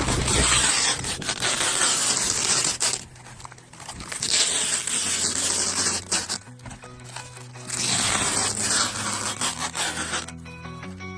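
Three long bursts of rough scraping noise, each about two to three seconds, over background music.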